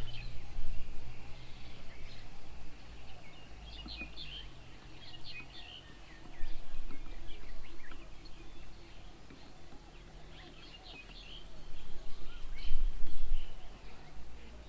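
Birds chirping and calling, with many short high calls scattered throughout. A low rumble swells three times and is the loudest sound when it comes.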